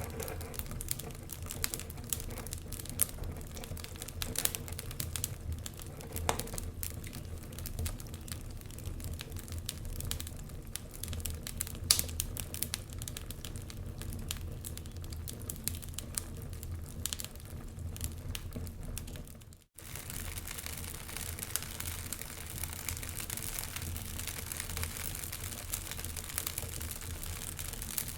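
Wood fire in a fireplace crackling, with many irregular pops over a low rumble. About two-thirds of the way through the sound drops out for an instant, then resumes with more hiss.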